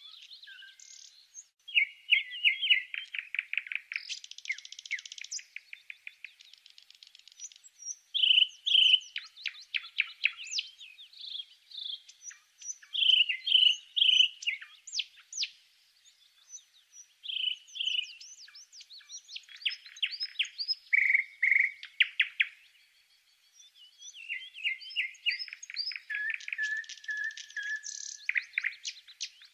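A small bird singing: a long, varied run of quick chirps and fast trills, with a short pause about three quarters of the way through.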